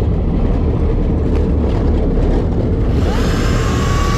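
A boat's engine running steadily with water noise. About three seconds in, a high whine rises quickly and then holds at one pitch.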